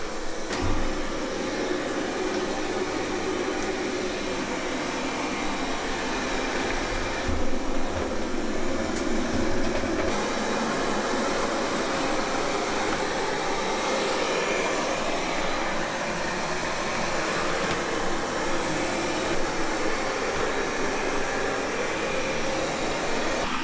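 Qihoo 360 S9 robot vacuum running steadily, its suction motor and brushes giving an even whirring hiss while it cleans.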